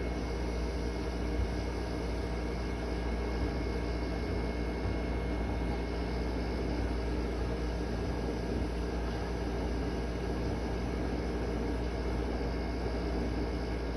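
Window air conditioner running steadily: fan blowing air with a constant low hum.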